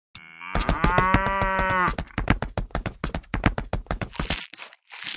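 A cow mooing once, a long call of about a second and a half, over a fast, even run of sharp clicks or taps that stops near the end.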